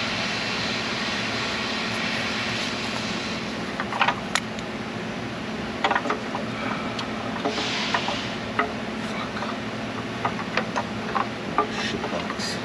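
Hand tools clicking and clinking on engine parts, with two spells of hissing, the first at the start and a shorter one about eight seconds in, over a steady hum.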